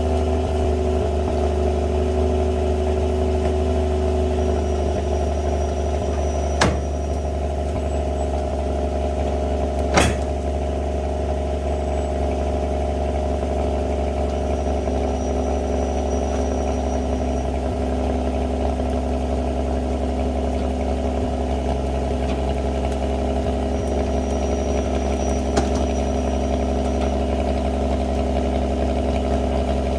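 Truck engine running steadily, with three sharp clanks, the loudest about ten seconds in.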